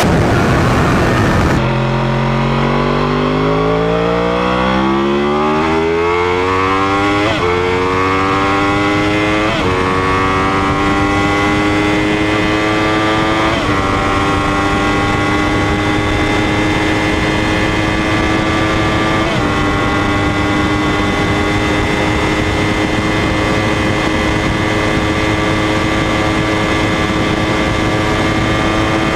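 Motorcycle engine accelerating hard up through the gears: the note climbs in each gear, dipping at quick upshifts about 7, 9.5, 13.5 and 19 seconds in, then holds steady at speed. A loud rushing noise fills the first second and a half.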